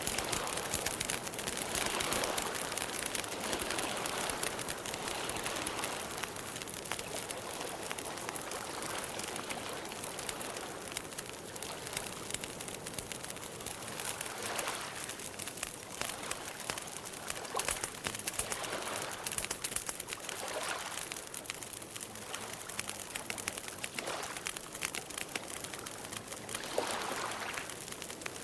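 Campfire burning steadily, a constant hiss with many small crackles and pops.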